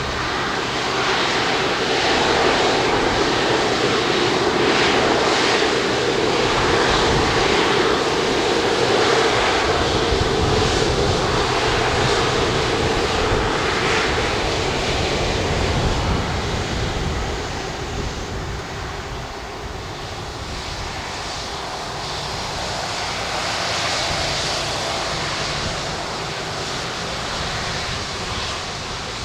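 Jet engine noise of an Airbus A330-200 with Rolls-Royce Trent 700 engines as it comes in to land, a steady loud roar with a hum in it. It fades after about seventeen seconds, then swells a little once more.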